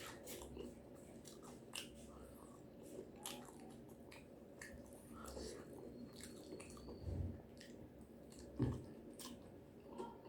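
A person chewing and biting into fried food with raw vegetables, close to the microphone: soft, wet chewing with scattered small crunchy clicks, and a couple of soft low thumps in the second half.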